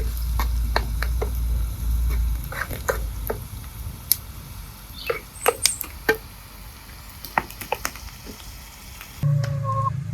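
Cooking over a wood fire: scattered sharp crackles and pops, with a low rumble under them in the first couple of seconds. Near the end the background changes abruptly to a steady low hum.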